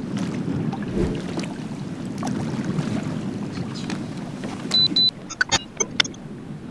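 Bass boat on the water: a steady low rumble of wind and water against the boat. Near the end comes a short high-pitched beep, the loudest sound, followed by a few quick sharp clicks.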